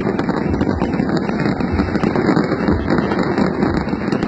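Dense fireworks barrage: overlapping bursts merge into a continuous rumble, with many small crackles and pops throughout.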